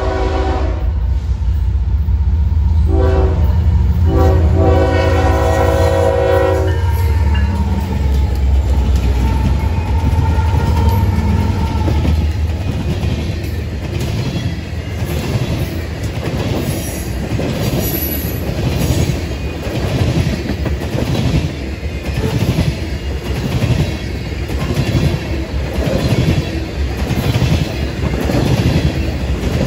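Diesel freight locomotive passing close by: its horn ends a blast just after the start, gives a short blast about three seconds in, then a long blast lasting to about seven seconds, over a heavy engine rumble. After that, covered hopper cars and tank cars roll past with a steady rhythmic clickety-clack of wheels over the rail joints.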